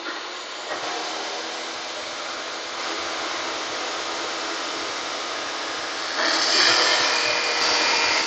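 Electric saw running steadily, then cutting into a wooden board freehand, growing louder from about six seconds in as the blade goes through the wood.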